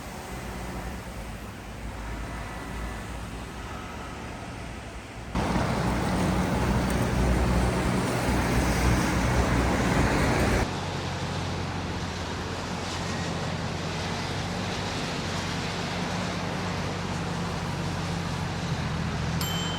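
City street traffic: steady road noise with vehicle engines running. The noise jumps abruptly louder about five seconds in and drops back about eleven seconds in, after which a steady low engine hum continues.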